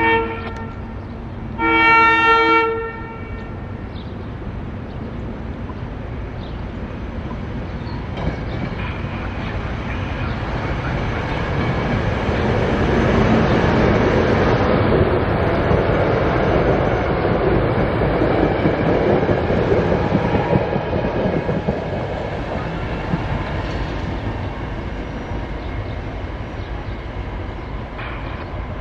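SEPTA regional rail train sounding two horn blasts, a short one then a longer one, then rolling past the platform, its rumble growing louder through the middle and fading toward the end.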